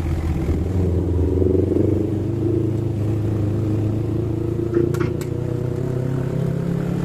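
Yamaha MT-25's 249 cc parallel-twin engine running while riding, its pitch wavering slightly, with two short sharp clicks about five seconds in.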